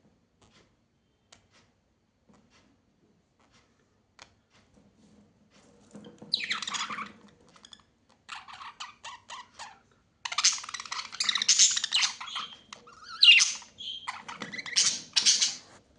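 Birds squawking in harsh, loud calls and rapid chattering, starting about six seconds in after a few faint ticks and running almost without a break over the last six seconds.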